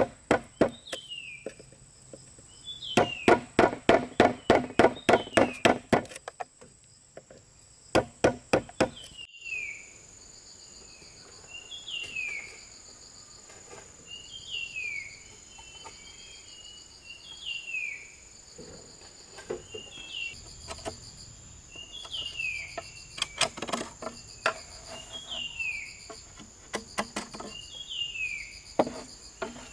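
Runs of sharp knocks from tool work on bamboo, the longest a quick series of about four a second. Under them run a steady high insect drone and a short falling whistle repeated every couple of seconds.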